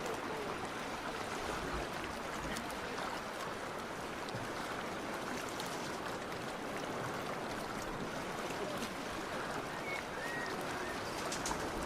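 Steady wash of water, small waves lapping along the shore, as an even rushing hiss with a few faint clicks.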